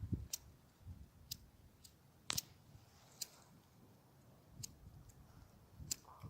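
Campfire crackling: faint, irregular sharp pops and clicks, with one louder pop about two and a half seconds in.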